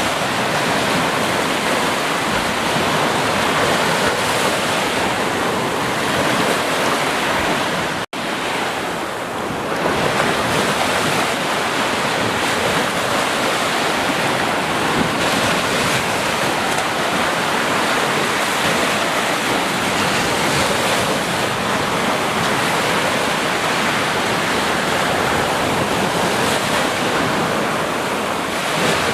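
Steady rushing water, a dense even wash of noise like surf or a cascade, which cuts out for an instant about eight seconds in.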